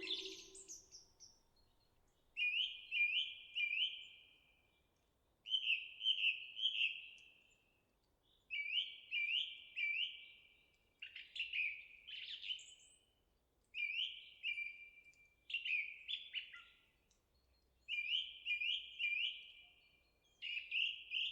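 A songbird calling in short phrases of two to four quick, high, down-slurred chirps, repeating every two to three seconds.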